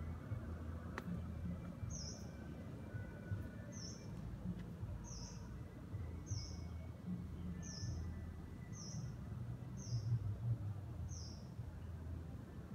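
A bird repeating a short, high-pitched chirp that falls in pitch, about eight times, roughly once every second or so, over a steady low rumble.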